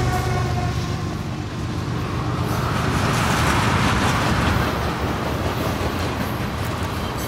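Train passing along a platform: a steady low rumble of wheels on rails, with a rushing hiss that swells about halfway through and then eases.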